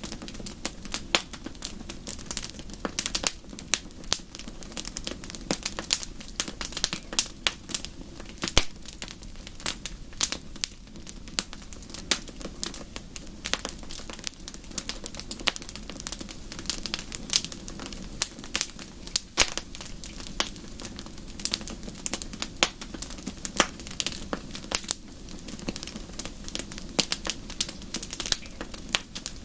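Wood fire in a fireplace crackling steadily, with many sharp irregular pops and snaps over a low, steady rush of flames.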